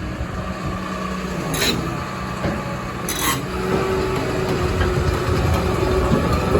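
Caterpillar 320E hydraulic excavator's diesel engine running steadily, with metal rubbing and scraping from the machine and two short, sharp metallic noises about a second and a half and three seconds in.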